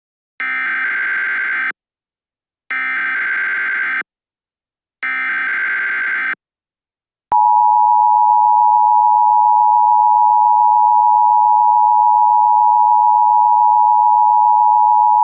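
Emergency Alert System tones: three short bursts of SAME header data, each a little over a second long with a pause between, then the steady two-tone EAS attention signal starting about seven seconds in and holding. These tones open a new alert, here a tornado warning.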